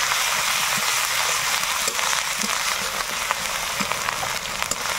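Onions and fresh ginger-garlic paste sizzling in hot oil in a metal karai, with light scraping ticks from a metal spatula stirring them. This is the stage where the paste is fried down to cook off its raw smell.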